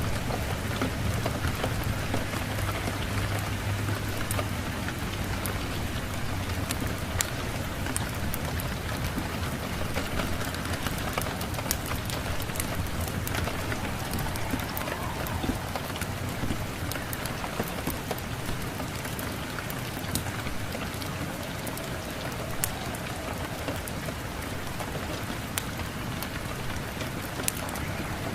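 Steady rain hiss with scattered sharp ticks and pops, over a low rumble that fades after the first few seconds.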